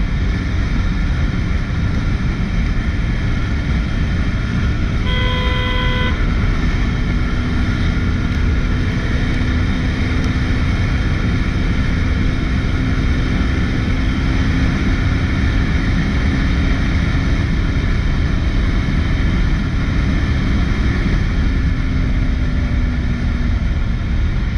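Steady rush of wind and road noise from a Bajaj Pulsar 200 NS motorcycle riding at highway speed. About five seconds in, a vehicle horn honks once for about a second.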